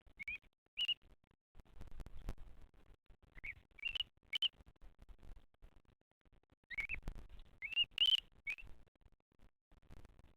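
A bird giving short, high chirps in small groups of two or three, about nine in all, each a quick rising note, over a faint low rumble.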